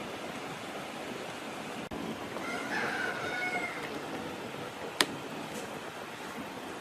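A rooster crowing once, over a steady background hiss. A single sharp click comes about five seconds in.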